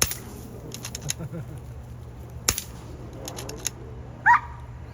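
Several sharp air rifle shots cracking at uneven intervals, and near the end a brief high rising chirp that is the loudest sound.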